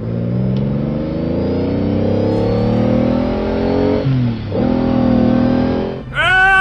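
Dubbed car engine sound effect for a pickup truck accelerating: the engine note climbs steadily in pitch, drops back about four seconds in like a gear change, and climbs again. Near the end a loud, high-pitched held tone cuts in over it.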